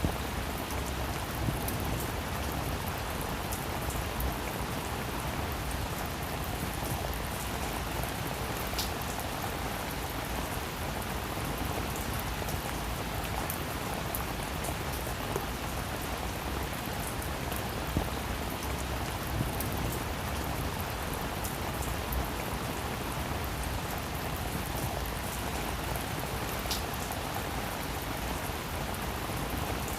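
Steady rain falling on a roof, an even patter with individual drops ticking sharply here and there.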